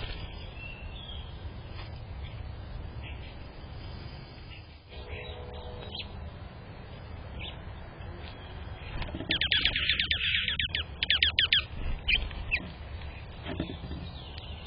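Small songbirds chirping: a few scattered notes, then a quick run of sharp, rapid chirps a little past halfway, over a low steady background rumble.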